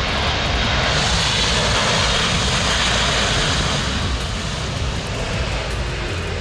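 Jet airliner passing low, its engines a loud rushing roar that swells about a second in and eases off after about four seconds.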